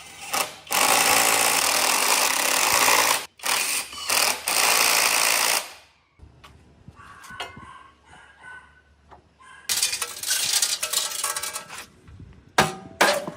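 Power tool running in three long, loud bursts, with a few sharp knocks near the end.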